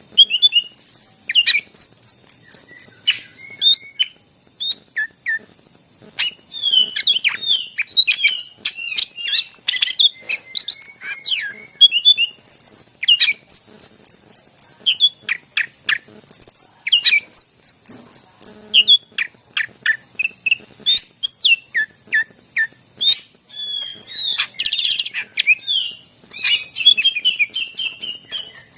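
Cucak ijo (green leafbird) singing continuously: a rapid, varied run of chirps, sweeping whistles and trills with hardly a pause, over a steady high hiss.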